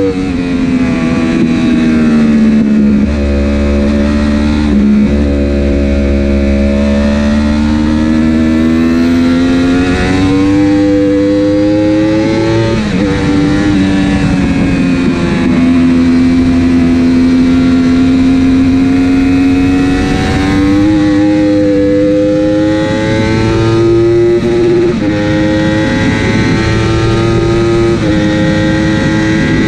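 Racing superbike engine at full race pace. The pitch climbs steadily through each gear, then drops sharply at a dozen or so shifts and throttle lifts. With its quickshifter and auto-blipper dead, each gear change is made on the clutch.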